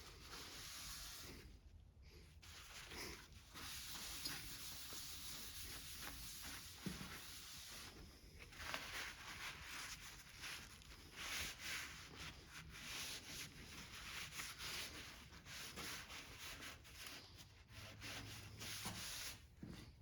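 Faint, intermittent scraping and rubbing as engine parts are worked on by hand during a small-engine teardown.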